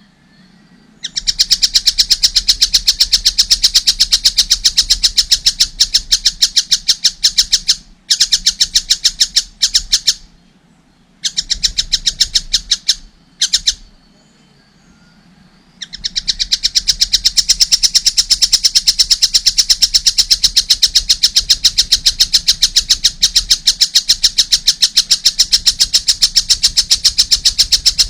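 Young kingfisher (tengkek buto) calling in long runs of rapid, harsh, high notes, about six a second. The runs are broken by short pauses, and the last run carries on steadily for over ten seconds.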